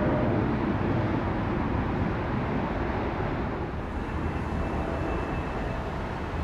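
Jet airliner engines running in a steady rumble, with a faint high whine joining about four seconds in.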